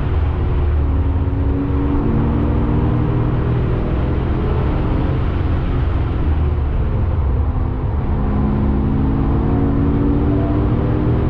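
Porsche 996 Carrera 2's 3.6-litre flat-six engine pulling hard under load, heard from inside the cabin over tyre and road noise. About eight seconds in the engine note briefly dips and re-forms, a gear change.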